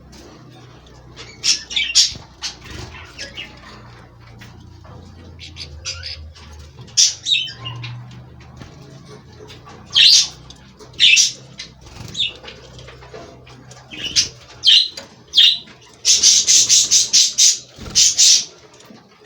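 European goldfinches calling in short, high chirps scattered throughout, with a fast run of about ten quick notes near the end.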